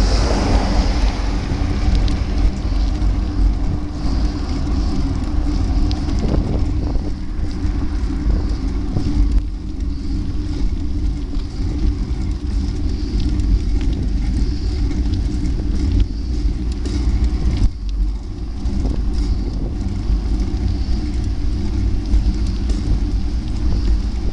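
Wind buffeting a camera microphone while riding a bike, over a loud steady low rumble with a hiss above it.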